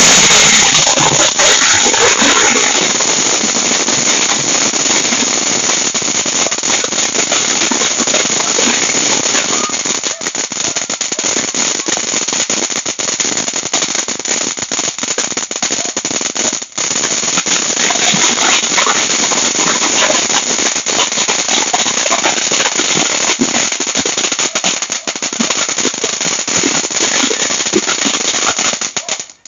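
Platinum Fireworks 'Taal Volcano' crackling fountain tube burning: a dense, rapid crackle of many small pops over a steady hiss. It breaks off for an instant about 17 seconds in and drops away suddenly near the end.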